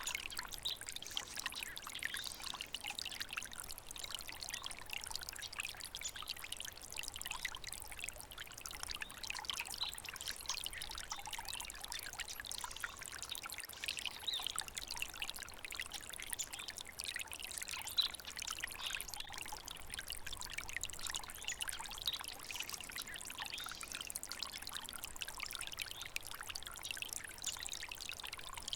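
Small stream of water trickling and splashing over stones, a steady light rush of running water.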